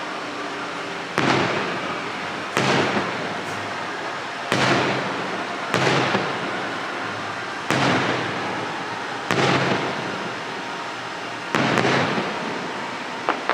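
Fireworks display: seven aerial shells bursting with sudden booms about every one and a half to two seconds, each trailing off before the next.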